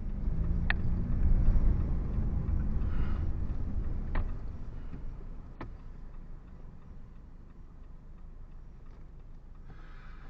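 Car engine and road noise heard inside the cabin while driving, a steady low rumble that eases off about halfway through as the car slows. A few sharp clicks at irregular times.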